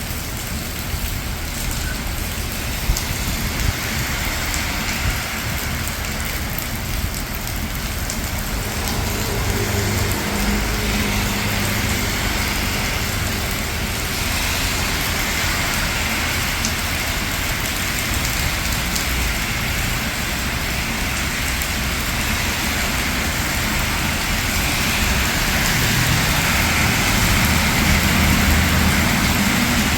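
Steady rain falling on city streets with cars passing on the wet road, a low rumble of traffic building up around a third of the way in and again near the end.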